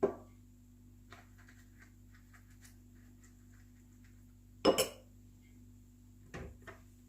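Kitchenware knocking and clinking against a hard surface: three short knocks, the loudest a quick double clink a little before five seconds in, over a faint steady hum.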